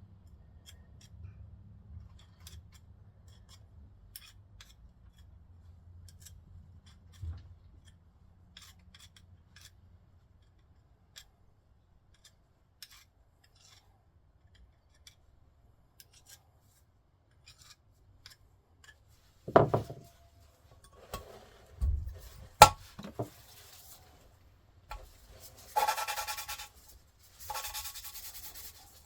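Scattered light clicks of parts being handled, then a few sharp knocks about twenty seconds in. Near the end come three rough rubbing strokes: hand abrasive work on an engine part.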